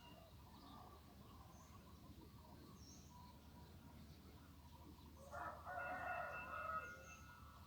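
A rooster crowing, one call of about a second and a half beginning near the end, over faint birdsong and chirps.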